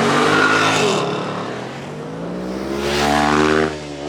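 Cars racing past at full throttle: loud engine revs that fall in pitch as one goes by early on, then a long climb in pitch that breaks off sharply near the end, like an upshift, and starts climbing again.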